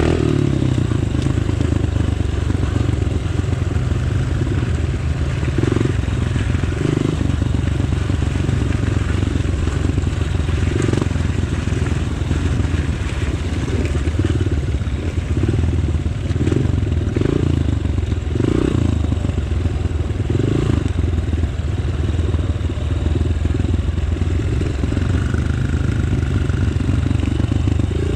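Off-road motorcycle engine running at low revs, surging again and again in short bursts of throttle.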